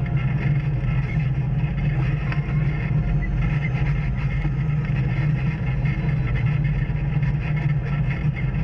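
Off-road vehicle engine running steadily while trail riding, a constant low drone with no revving or changes.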